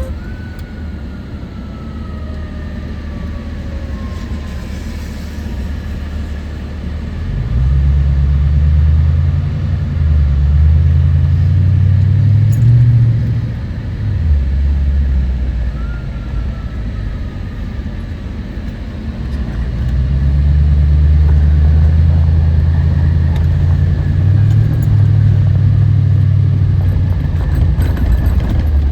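Fire apparatus's diesel engine running close by, a deep drone that swells loud about a quarter of the way in and again from about two-thirds through, its pitch shifting in steps as the throttle changes.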